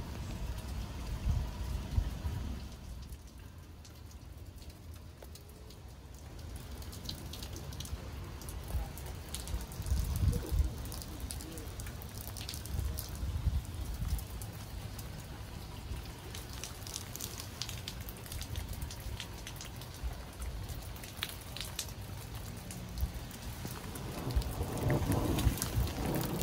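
Rain falling on a garden, with drops striking puddled water, soil and plant leaves as many small ticks over a steady hiss. A low rumble runs underneath and grows louder near the end.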